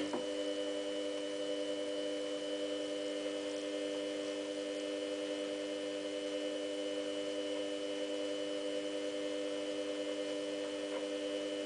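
Samsung washing machine's drum motor turning the drum while the machine weighs the load, a steady electrical whine of several pitches that starts and stops abruptly.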